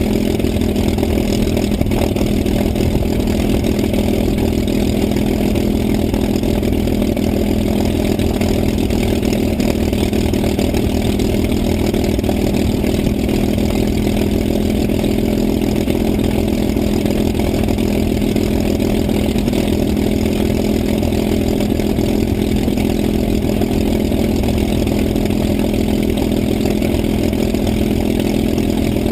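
An engine running steadily at a constant speed, with no change in pitch or loudness.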